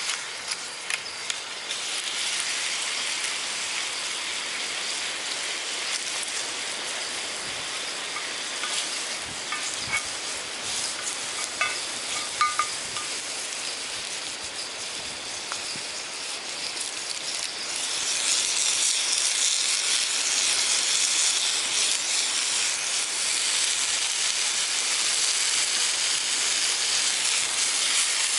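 Vegetables frying, a steady sizzle that grows clearly louder about two-thirds of the way through, with a few sharp clicks in the first half.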